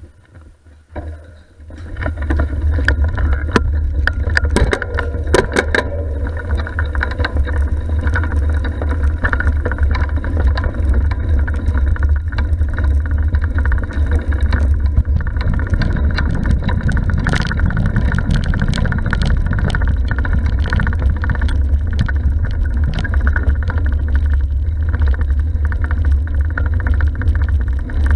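Steady low wind rumble buffeting an action camera's microphone on a moving bicycle, coming up about two seconds in, with a run of sharp rattling clicks a few seconds later.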